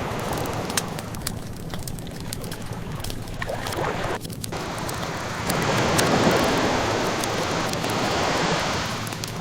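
Ocean waves washing ashore, easing off about four seconds in, then a wave swelling up and washing through before easing again near the end, with scattered pops of a wood fire crackling over it.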